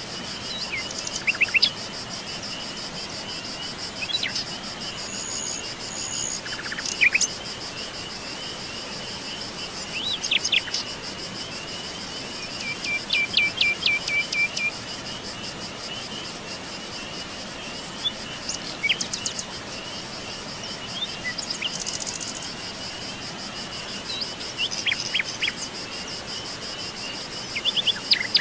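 Forest ambience: wild birds giving short chirps and calls every few seconds, with a quick run of repeated notes about halfway through, over a steady high-pitched insect trill and a soft background hiss.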